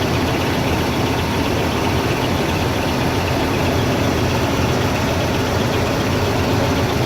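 1984 GMC 1500 C pickup's engine idling steadily on a cold start: pretty quiet, like a sewing machine.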